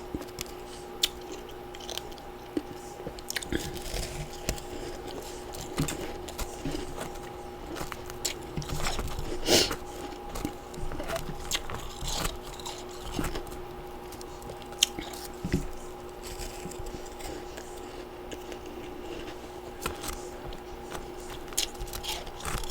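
Freezer frost and ice chunks being bitten and chewed close to the microphone: irregular crunches, the loudest about nine and a half seconds in, over a faint steady hum.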